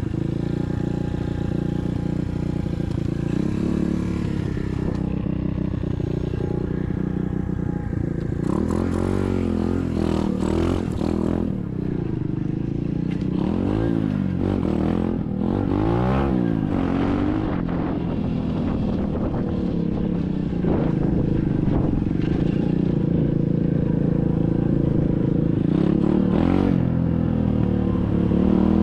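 SSR 125cc dirt bike's single-cylinder four-stroke engine running at low revs. About halfway through, the revs rise and fall several times.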